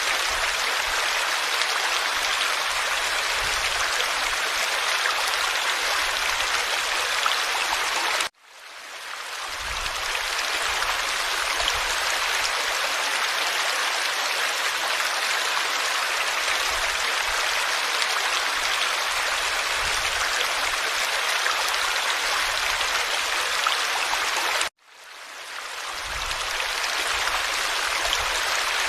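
Forest stream flowing steadily, an even rush and babble of water. The sound cuts out abruptly twice, about 8 seconds in and near the end, and fades back in over a second or two each time.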